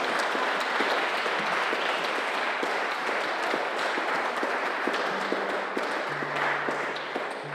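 Audience applauding at the end of a song, a dense patter of claps that begins to thin near the end. A few faint held low instrument notes sound under the applause in the last couple of seconds.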